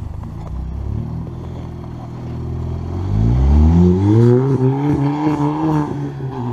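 Car engine running at low revs, then accelerating about three seconds in and holding higher revs while it pulls.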